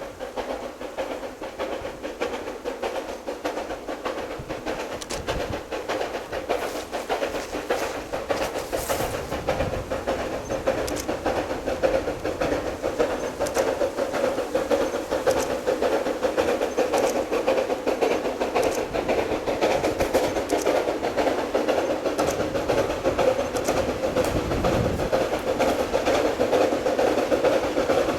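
Narrow-gauge C2 class steam locomotive running with its train, a steady mechanical noise that grows steadily louder.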